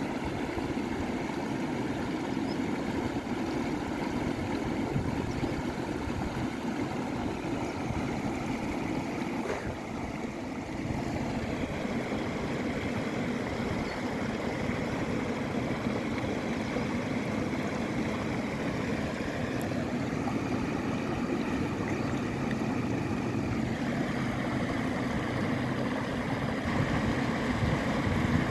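Panjkora River's fast mountain water rushing in a steady, unbroken roar.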